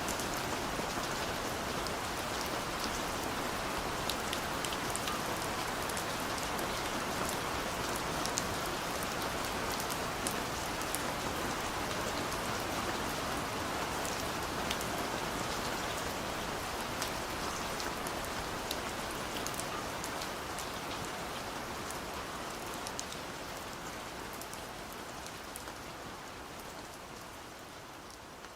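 Steady rain falling on a surface, an even hiss with scattered sharp drops, slowly fading out over the last several seconds.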